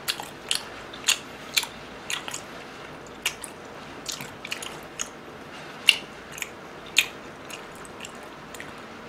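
Close-miked open-mouth chewing of chewy rice cakes in black-bean sauce: irregular wet smacks and clicks, a couple each second, the loudest about six and seven seconds in.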